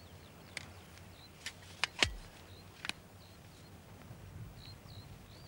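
Small birds chirping: short high calls every half second or so. A few sharp clicks and knocks fall in the first three seconds, the loudest a click ending in a low thud about two seconds in.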